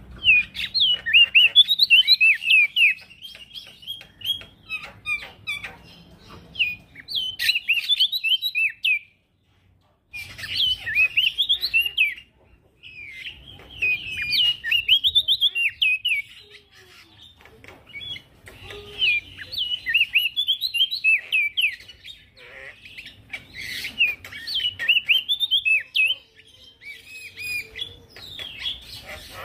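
A male prenjak daun singing busily: rapid runs of high, quick chirping notes in phrases several seconds long, broken by short pauses. A brief full silence falls about nine seconds in.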